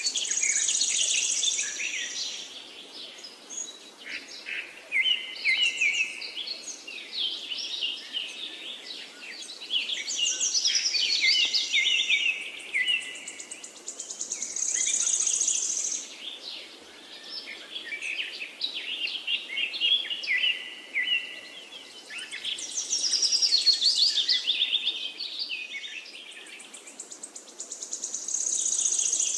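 Parakeets chirping in a rapid stream of high, quick chirps that swell into loud bursts every few seconds, over a faint steady hiss.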